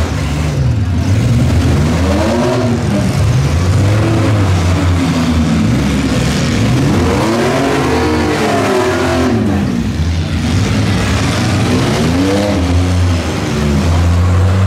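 Engines of several demolition-derby SUVs and small trucks revving hard and dropping back again and again as they manoeuvre, their pitches rising and falling over one another.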